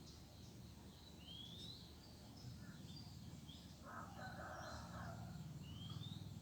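A rooster crowing faintly about four seconds in, among small birds' short rising chirps, over a steady low background rumble.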